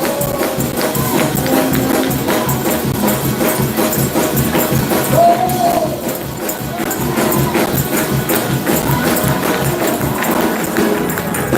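Church music played live with a tambourine shaken and struck in a fast, steady beat over sustained instrumental tones.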